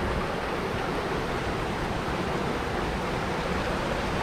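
A small waterfall, creek water pouring over rocks, rushing steadily.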